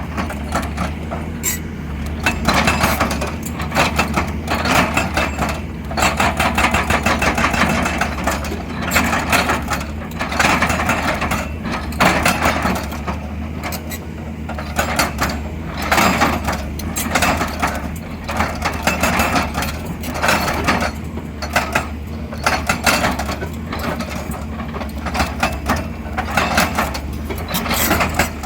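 XCMG XE200DA excavator working, its diesel engine running steadily under load, with repeated stretches of rapid rattling every few seconds as the machine digs and swings.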